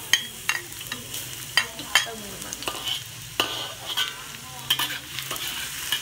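Minced aromatics sizzling in hot oil in a wok, with a steady hiss broken by many sharp clicks and taps as a knife scrapes them off a plate and a metal spatula stirs them.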